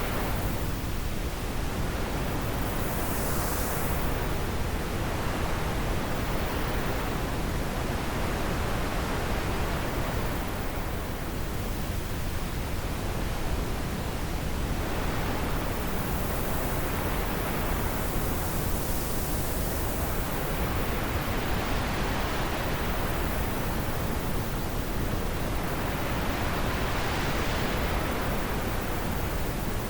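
Wind blowing steadily with a constant hiss, its higher rush swelling and easing in slow gusts every few seconds.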